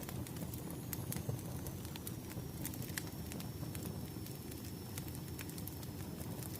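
Wood fire crackling: irregular sharp pops and snaps over a steady low rush of flames, with a faint thin high whistle that slowly drops in pitch.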